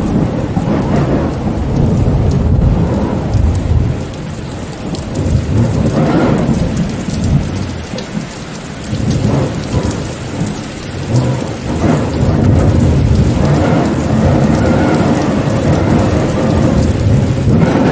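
Steady rain with low, rolling thunder rumbling underneath; the rumble swells and fades, easing for a few seconds in the middle.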